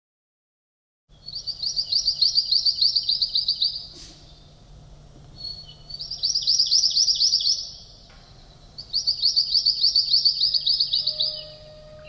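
A songbird singing three phrases, each a rapid trill of repeated high notes, about five a second, lasting two to three seconds with pauses between. A single sharp click about four seconds in.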